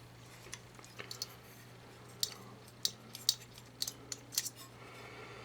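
Light, irregular metal clicks and taps, about a dozen, as a small-engine carburetor is taken apart by hand, with a faint steady hum underneath.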